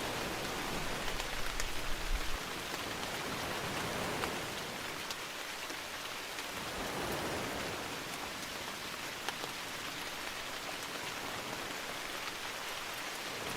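Steady rain falling in a forest, with scattered sharper drop ticks through the dense hiss and a couple of slow, gentle swells.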